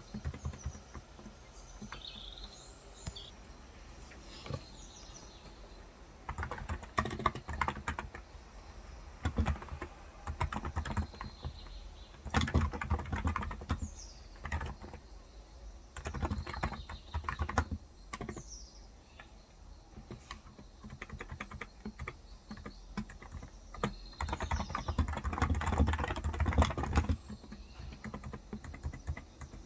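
Typing on a Cox Endeavour tenkeyless keyboard with 35 g electrostatic capacitive (Topre-style) switches, coming in several bursts of quick key presses with pauses between. Birds chirp faintly in the background now and then.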